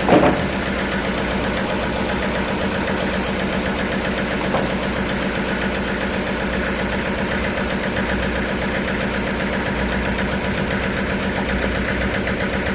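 Sawmill machinery running steadily with a constant motor hum. There is a sharp knock right at the start and a lighter one about four and a half seconds in.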